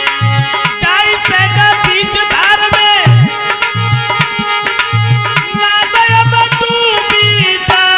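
An instrumental interlude of Indian devotional music: a tabla-style hand drum keeps a rhythm of deep, repeating bass strokes with sharp strokes in between. Over it a melodic instrument plays held notes that slide up and down in pitch.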